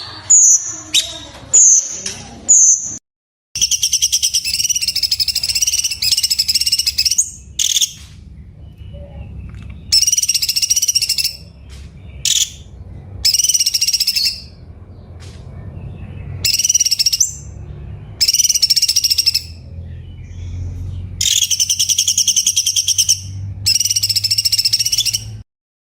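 Cucak cungkok songbird singing: four short, sharp whistles falling in pitch, then a run of loud, rapid trilled phrases of one to four seconds each with short gaps between, over a low background hum. The song cuts off abruptly near the end.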